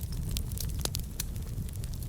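Wood fire burning in a fireplace: a steady low rumble of flames with scattered sharp crackles and pops from the burning logs, one louder pop a little before the middle.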